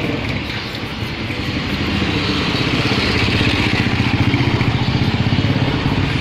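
A small engine running steadily with a rapid pulse, getting louder from about two seconds in.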